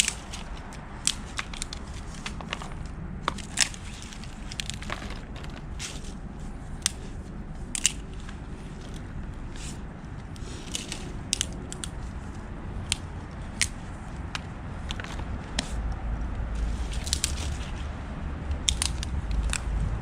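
Wood fire crackling, with sharp irregular pops and snaps over a steady hiss, and a low rumble that grows stronger near the end.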